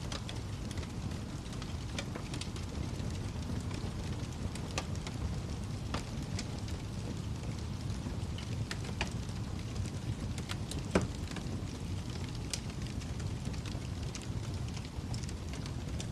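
Wood fire crackling in a fireplace: a steady low rumble of the flames with scattered sharp pops and snaps, one louder pop about eleven seconds in.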